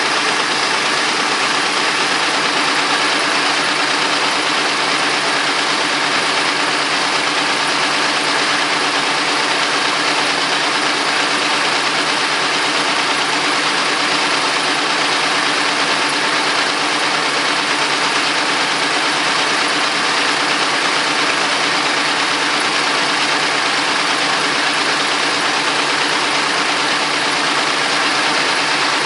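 Vintage Caterpillar D13000 diesel engine running steadily at an even speed.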